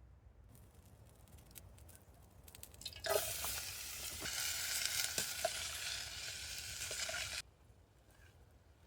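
Food sizzling in a hot pan. It starts suddenly about three seconds in, after a few faint clicks, and cuts off about four seconds later.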